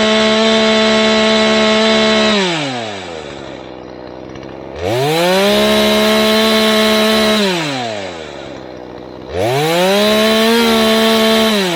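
Two-stroke chainsaw revved to full throttle and held, dropping back to idle and revving up again, three bursts of about two and a half seconds each. It is being test-run after its filter was adjusted, because it had been cutting out.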